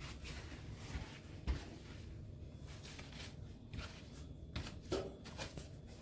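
Faint indoor handling sounds: scattered soft knocks and rustles, with one sharper knock about one and a half seconds in and another near five seconds in.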